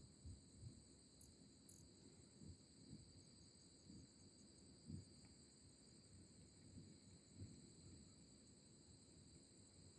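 Faint crickets chirping steadily, with a few soft low thumps underneath.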